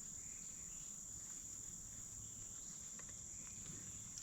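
Crickets trilling steadily in one continuous high-pitched chorus, with a couple of faint ticks.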